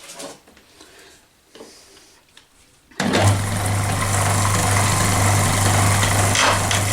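A wood lathe switched on about three seconds in, its electric motor then running steadily and loudly with a low hum and a noisy rattle over it.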